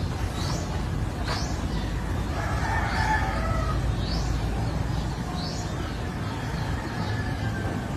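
Farmyard fowl sounds: chickens clucking faintly, with short rising chirps about once a second from a small bird, over a steady low rumble.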